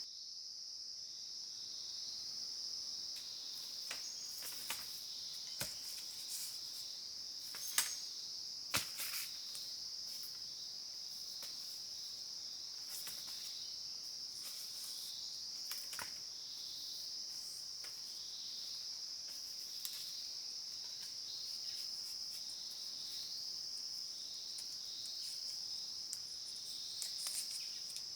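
A steady high-pitched insect chorus, pulsing slightly, with a scattering of sharp clicks and snaps, the loudest about eight and nine seconds in.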